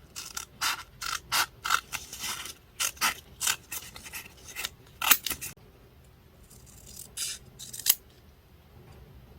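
Scissors cutting paper: a quick run of snips, about three a second, then a pause and two more snips near the end.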